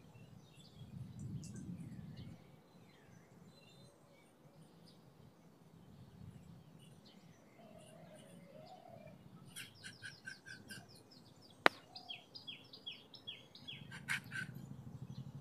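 Small birds chirping, with a fast run of repeated chirps about ten seconds in and a series of short falling notes soon after. A single sharp click about twelve seconds in is the loudest sound.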